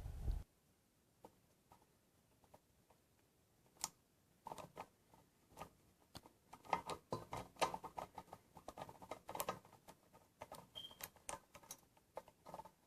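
Faint, irregular small clicks and taps of hands and tools working at a ceiling fan's metal case to open it: scattered at first, then in quick clusters from about a third of the way in.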